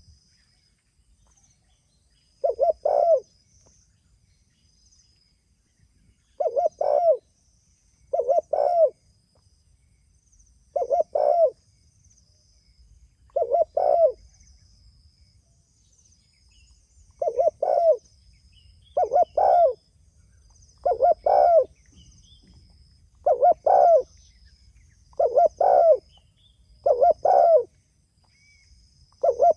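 Spotted dove (tekukur) cooing over and over: a short phrase of two or three low coo notes about every two seconds. Faint high chirping runs underneath.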